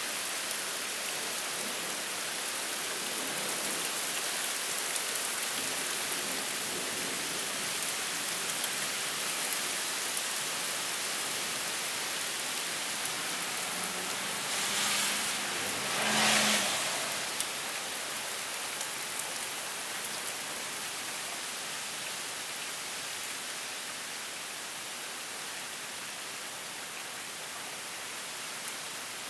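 Heavy rain pouring down steadily in a cold-front downpour. About halfway through, a vehicle passes briefly on the wet road, a short louder swell with a low hum.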